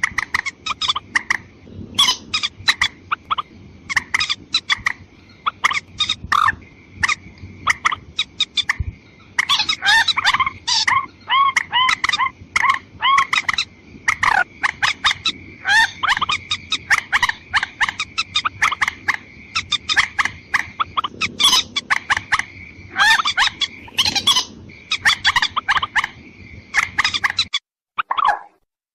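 Watercock calls played from a bird-trapping lure recording: a dense, rapid run of clicking and bubbling notes over a steady high whine, cutting off abruptly near the end.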